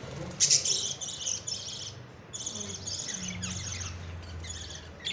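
Parrots chirping in quick, high, repeated bursts, in three runs with short gaps, a few notes falling in pitch.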